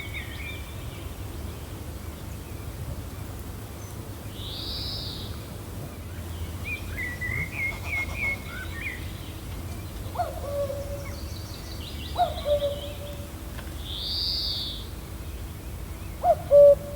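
Gentle wind rumbling steadily under several birds calling: high arched calls about ten seconds apart, a run of quick chirps and a trill in the middle, and short lower calls falling in pitch three times in the second half, the loudest near the end.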